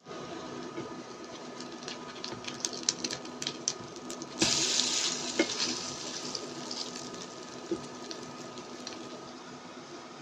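Kitchen work sounds: a run of light clicks and clinks, then about a second of rushing water, as from a tap turned on briefly, over a faint steady hum.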